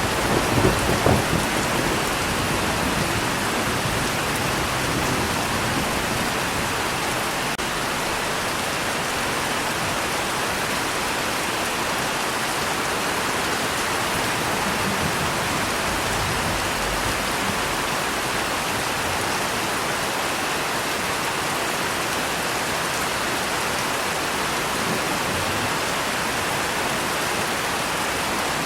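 Steady rain falling, with a rumble of thunder dying away in the first second or two.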